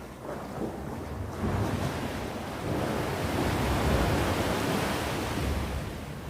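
Sea waves breaking on the shore: the surf swells from about a second and a half in, peaks near the middle and then eases off.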